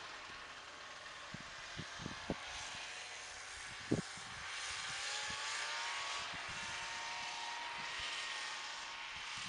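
Buran snowmobile's RMZ-640 two-stroke twin with an expansion-chamber exhaust running at a distance, faint, its pitch climbing as it accelerates in the second half. A few soft thumps in the first half, the loudest about four seconds in.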